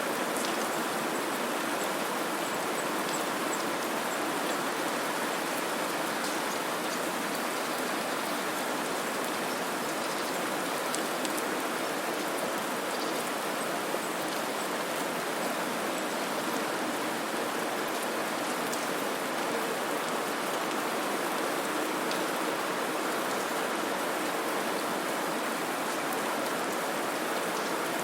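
Steady white noise ambience: an even, unbroken hiss with a few faint scattered ticks.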